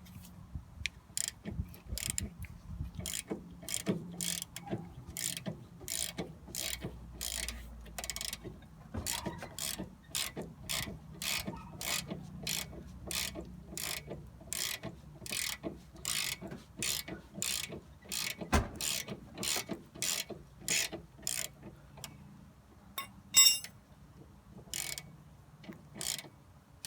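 Ratchet wrench clicking in steady back-strokes, about two a second, as a tension rod bolt is backed out under a Nissan 240SX. There is a single low thud partway through, and later one sharp, ringing metal clink, the loudest sound.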